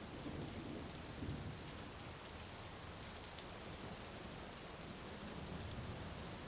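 Heavy rain falling steadily, with a low rumble of thunder in the first second or two.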